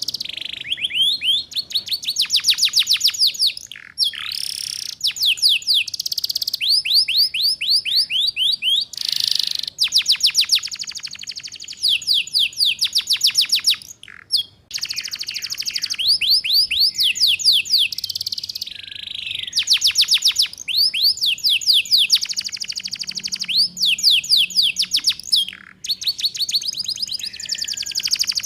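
Domestic canary singing continuously in phrases of fast rolling trills, each a rapid run of high sweeping notes, alternating with short buzzy notes and brief pauses. This is the rapid 'ngeriwik' trill song used as a master recording for young canaries to learn from.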